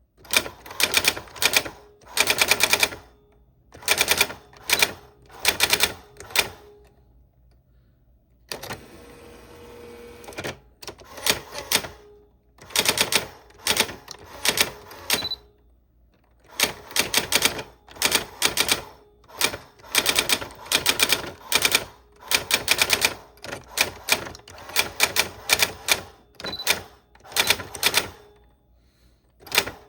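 Old typewriter being typed on: keys strike in quick bursts of sharp clacks with short pauses between them. About nine seconds in there is a steadier rattle of about two seconds, then typing resumes.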